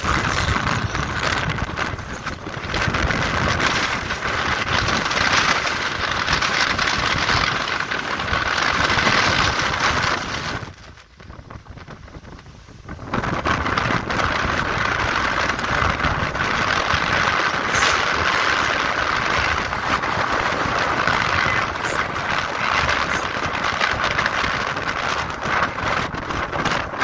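Strong wind blowing across the microphone: a steady rushing that drops away briefly about eleven seconds in, then returns.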